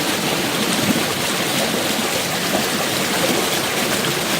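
Mountain creek water flowing, a steady rush of running water.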